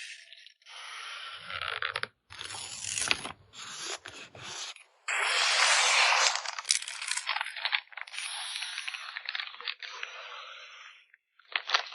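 Photocard packing materials being handled: crinkling and scraping in irregular bursts, loudest about five to six and a half seconds in, stopping shortly before the end with one short final burst.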